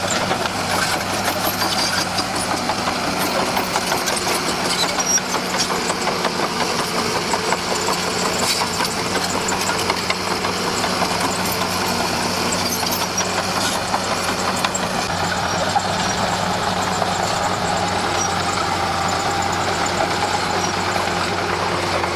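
Komatsu D41P crawler dozer's diesel engine running steadily, with a busy rattling clatter over the engine note.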